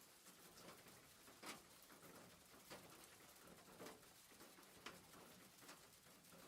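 Faint, steady rain with a scattering of sharper drips or taps about once a second, the loudest near a second and a half in.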